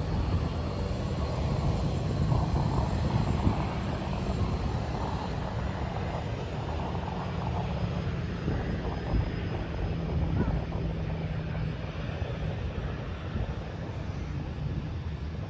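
Airplane engines droning steadily at a distance, with a faint steady hum that fades out near the end. Wind buffets the microphone throughout.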